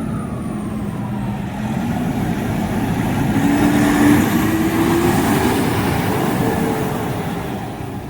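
A fire truck driving past close by, its engine and tyre noise growing louder to a peak about halfway through and then fading away, with the engine note rising as it accelerates.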